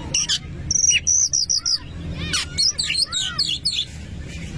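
Oriental magpie-robin (kacer) singing a fast, varied song of whistles, upswept and arched notes and a quick repeated trill, with hardly a pause.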